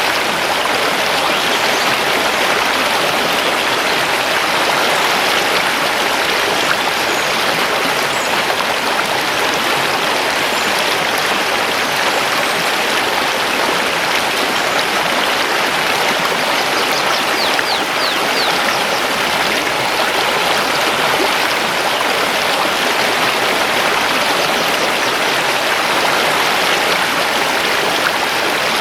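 Mountain river flowing among stones: a steady, continuous rush of water. A few faint high bird chirps come through about two-thirds of the way in.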